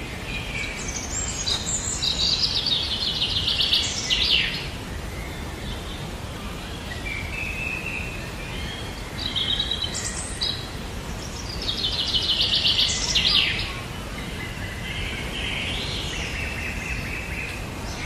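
Birdsong: a rapid trilled phrase rings out about two seconds in and again about twelve seconds in, with shorter chirps and whistles between, over a steady low background noise.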